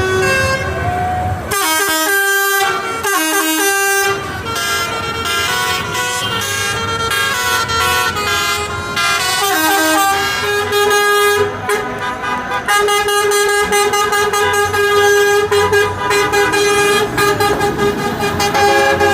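Vehicle and air horns from passing tractors and trucks, several overlapping and changing pitch, over the hum of their engines.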